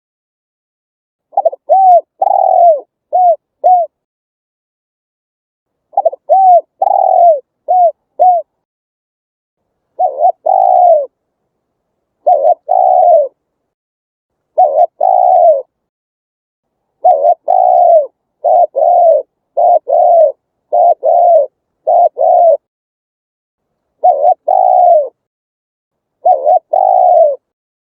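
Spotted dove cooing: phrases of short, arched coos repeat every second or two, with dead-silent gaps between phrases.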